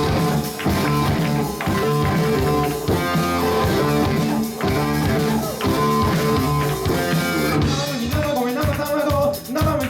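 Live rock band playing: electric guitar and drum kit, with singing coming in near the end.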